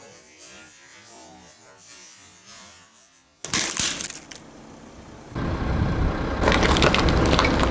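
Car tyre rolling over and crushing crunchy objects: after a faint hiss, crackling and snapping start suddenly about three and a half seconds in, and from about five seconds in a low rumble of the rolling car joins, with the loudest crunching near the end.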